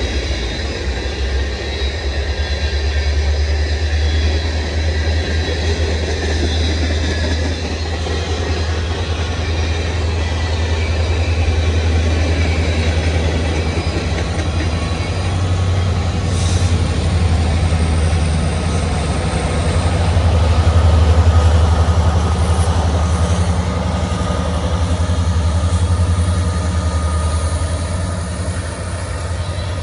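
CN freight train rolling past: a steady rumble of railcars on the rails over a constant low diesel locomotive drone, swelling to its loudest about two-thirds through.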